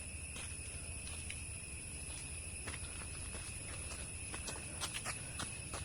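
Insects chirring steadily in high tones, with scattered soft footstep crunches on a dirt track.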